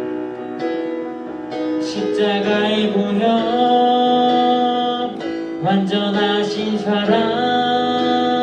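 Worship song sung to instrumental accompaniment, the voices holding long, drawn-out notes between lyric lines.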